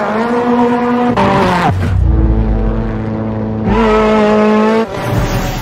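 Ford Fiesta rally car engine held at high revs, dropping in pitch a little over a second in, then running lower with a deep rumble. It jumps sharply back up in pitch near four seconds and cuts back about a second later.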